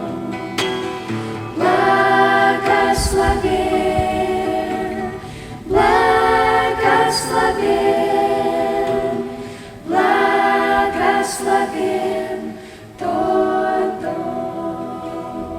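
A group of voices singing a Christian song together, each sung phrase starting about every four seconds.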